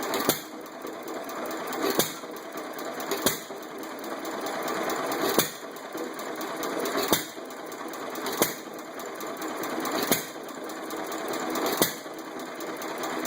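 Old Fairbanks Morse stationary engine running slowly: a sharp bang every one to two seconds at uneven gaps, with steady mechanical clatter between the bangs.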